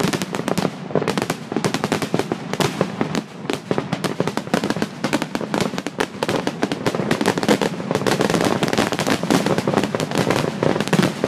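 Aerial fireworks display: a dense, unbroken barrage of bangs and crackles from many shells bursting close together.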